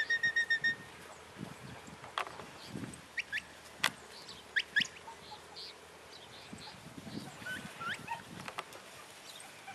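Birds calling outdoors: a quick run of about eight clear, high notes right at the start, then scattered short rising chirps, with a few sharp clicks in between.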